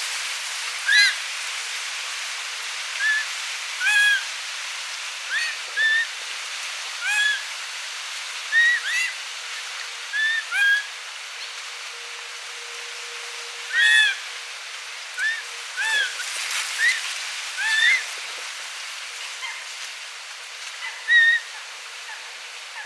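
Eurasian coot giving short, sharp calls, one every second or so at an irregular pace, over a steady background hiss.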